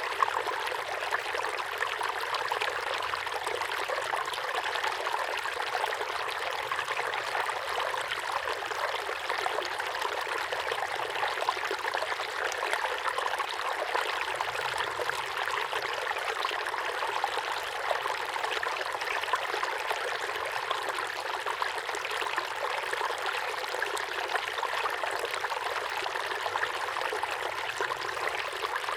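Small waterfall pouring steadily into a pond, an even splashing rush of falling water without pause.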